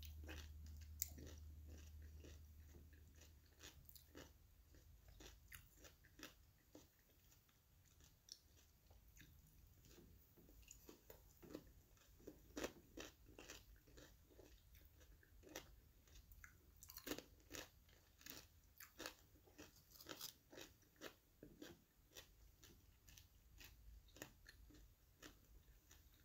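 Soft crunchy bites and chewing of fried chicken wings and Doritos tortilla chips, a scattered series of short crunches. A low hum fades out over the first few seconds.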